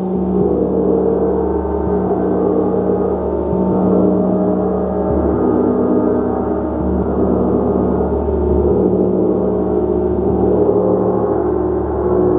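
Gong played in a continuous sound bath, a dense, sustained wash of overtones that swells and ebbs without a break.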